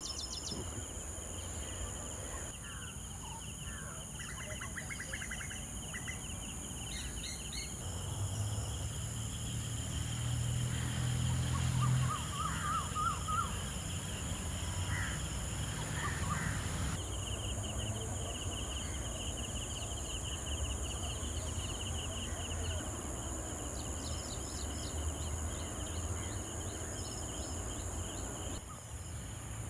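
Birds calling outdoors, short chirps and trills over a steady high-pitched drone, with a low rumble underneath that swells for a few seconds in the middle.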